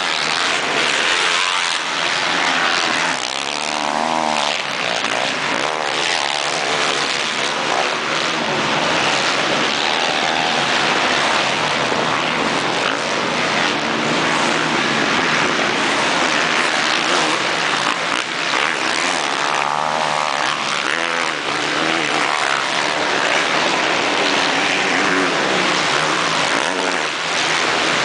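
Several motocross dirt bikes' engines running at race pace, a continuous loud drone with engines revving up and down as bikes pass.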